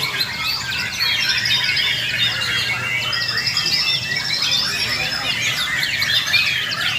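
Many white-rumped shamas (murai batu) singing at once in a dense, unbroken chorus of rapid whistles, trills and chatter, over a low steady hum.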